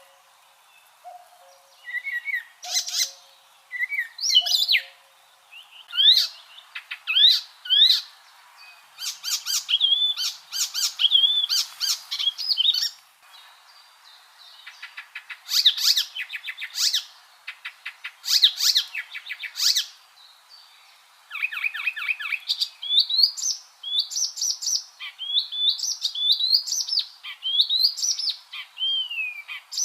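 Icterine warbler singing: a long, varied song of fast chattering trills, rapidly repeated notes and rising and falling whistles, in phrases broken by short pauses.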